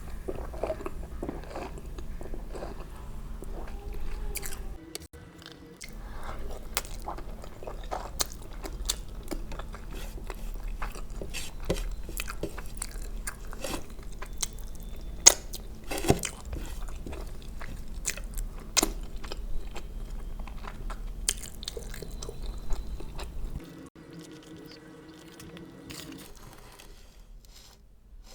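Close-miked eating: chewing and biting food, with wet smacks and many sharp little crunches.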